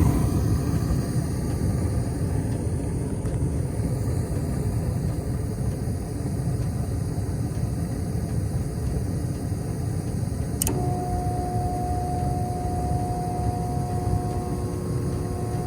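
Carrier 58DLA gas furnace running with a steady low rumble. About two-thirds of the way in there is a sharp click, and a steady high whine starts and holds.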